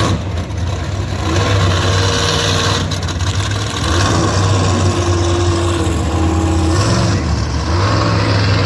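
Engine running steadily with a strong low hum, its pitch rising and falling slightly at times.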